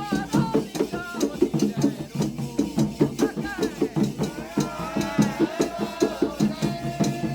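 Religious drumming for Xangô on hand drums, with a rattle keeping a fast, even beat. Voices singing a chant over it, clearest in the second half.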